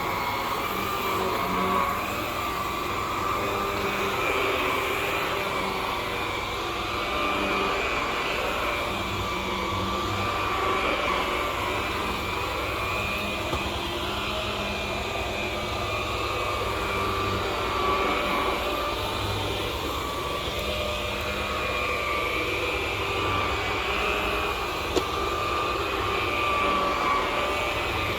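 MD central vacuum running with an Electrolux electric power nozzle switched on: a steady rush of suction with a whine that wavers a little in pitch.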